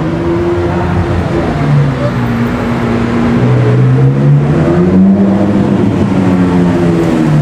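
Engines of supercars pulling away, running and revving, with their pitch climbing in steps and dropping back and more than one engine heard at once; the sound gets louder about halfway through.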